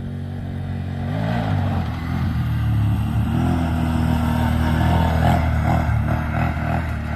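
A vehicle engine revving up about a second in, then running hard under throttle that rises and falls.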